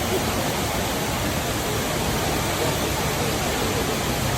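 Waterfall pouring steadily: an even, continuous rush of falling water.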